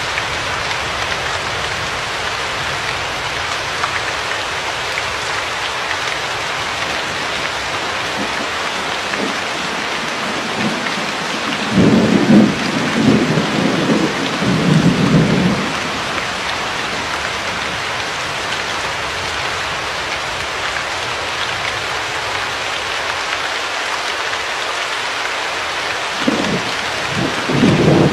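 Steady rain falling, with a low rumble of thunder about halfway through and another starting near the end.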